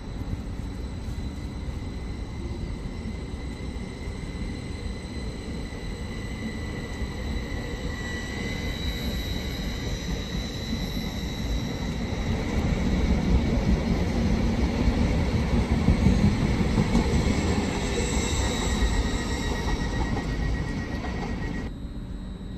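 A train running through the station, its rumble growing louder through the middle and easing off near the end, with a thin high steady wheel squeal.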